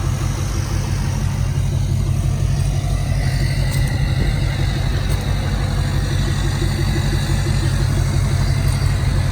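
A vehicle's engine running steadily, a constant low hum with no change in speed.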